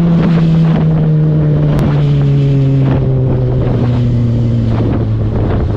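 Motorcycle engine running, its note falling slowly and steadily as the revs drop, with wind rushing over the microphone.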